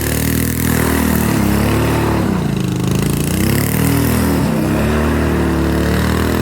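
Small petrol engine of a mini bike or kart running hard, its revs dropping and climbing back several times as the throttle is eased and reopened.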